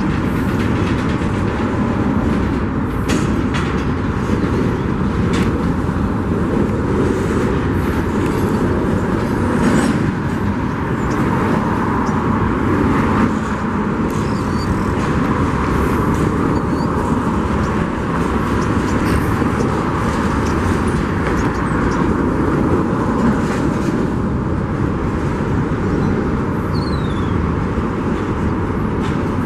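Union Pacific freight train rolling past, its cars rumbling and clattering steadily over the rails with frequent sharp clicks and a few brief high wheel squeals.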